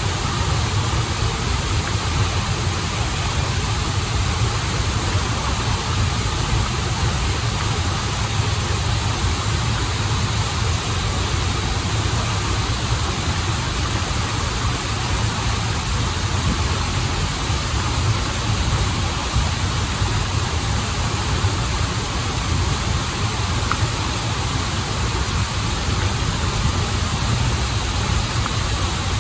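Waterfall and stream water rushing steadily, with a deep low rumble under an even hiss.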